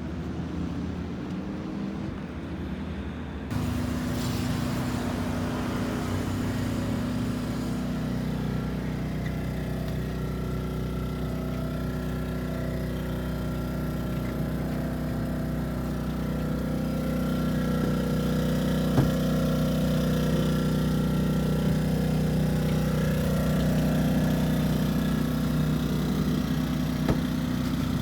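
A steady, even engine hum that changes abruptly about three and a half seconds in and grows a little louder later on, with a single sharp click partway through.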